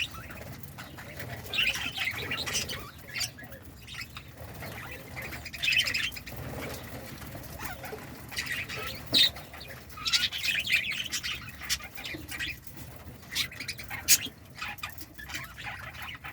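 Budgerigars chirping and chattering in short bursts, with wings fluttering among the calls.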